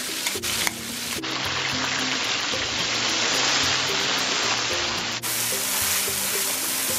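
Green masala paste and chopped tomatoes sizzling in hot oil in a nonstick wok while a wooden spoon stirs them, with a couple of light clicks in the first second. Background music with held notes plays underneath.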